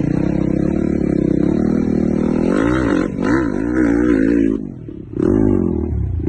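WR 250 enduro motorcycle's single-cylinder engine running steadily, then revved in quick throttle blips, its pitch rising and falling. It drops back briefly about five seconds in before revving again.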